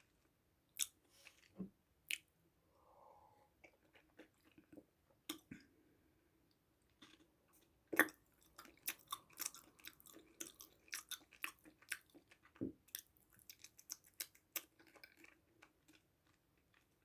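Close-up eating sounds: a person biting and chewing, with crisp crunching clicks that come thickest about halfway through, after one sharp bite.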